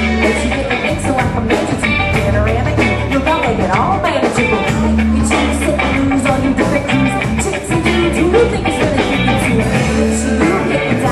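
Live band music with electric guitar, bass and a steady beat, and singing over it.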